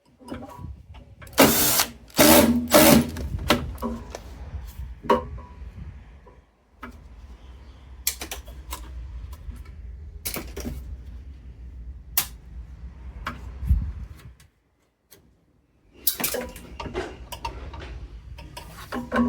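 Metal parts of a continuous-flow gas water heater being taken apart by hand: scattered sharp clanks and knocks, loudest in the first few seconds, over a low steady rumble that briefly cuts out about three quarters of the way through.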